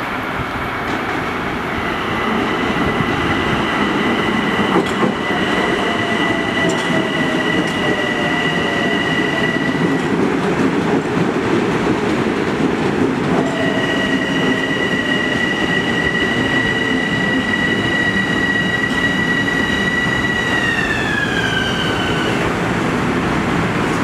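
LIRR M7 electric multiple-unit train pulling into a station, its wheels and cars running with a steady rumble. Two spells of high, steady whine ride over the rumble, and the second slides down in pitch near the end as the train slows.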